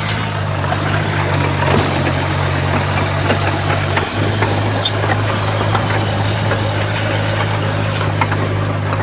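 Diesel engine of heavy earthmoving equipment running at a steady speed, a constant low drone, with scattered clicks and knocks over it and a brief dip about four seconds in.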